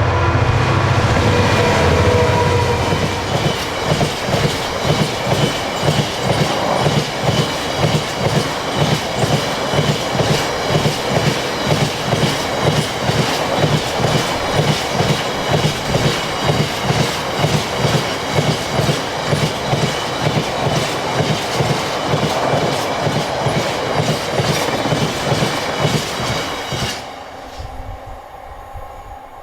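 A train passing close by. In the first few seconds a diesel locomotive's engine runs with its pitch falling as it goes past. Then the wheels of the following vehicles clatter over the rail joints in a steady rhythm of about two beats a second, and the sound drops away near the end.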